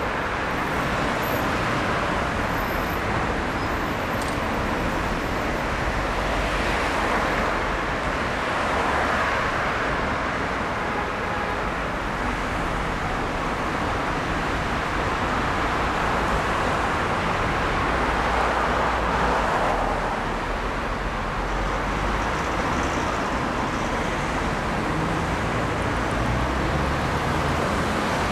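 Steady road traffic noise, a continuous rumble and hiss that swells and eases slightly without a break.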